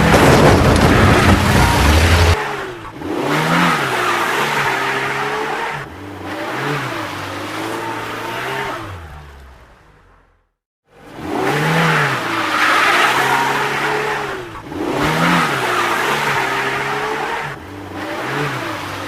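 Vehicle engine revving, its pitch rising and falling over a noisy hiss. The same passage plays twice, with a short silent break about ten seconds in.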